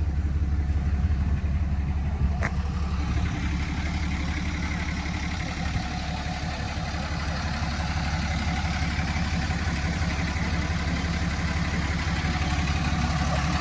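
The 6.7-litre Cummins turbo-diesel inline-six of a 2008 RAM 4500 idling steadily, with one sharp click about two and a half seconds in.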